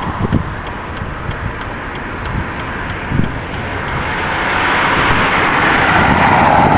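Wind buffeting the microphone: a steady rushing noise with irregular low thumps that swells in the second half. A faint, regular ticking comes about two or three times a second.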